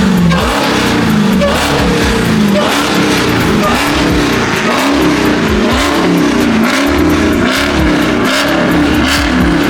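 Car engine revved over and over, each rev climbing and dropping back about once a second, loud enough to be felt in the chest.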